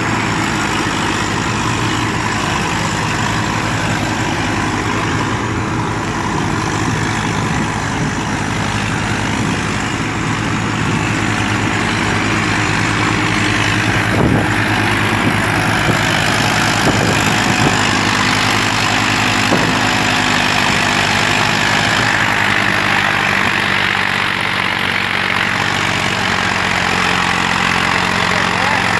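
Diesel tractor engine running steadily, with a brief knock about halfway through.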